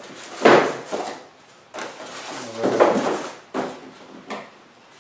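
Printer parts and their packaging being handled and moved about in a box: a run of scraping, rustling knocks, loudest about half a second in and again near three seconds.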